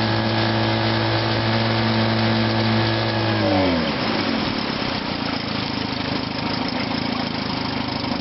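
1957 Sea King 5 hp two-stroke outboard motor running steadily and smoothly, with a little rattle in the cowls. About three and a half seconds in it is shut off and its pitch sinks as it winds down to a stop. A steady hiss continues afterwards.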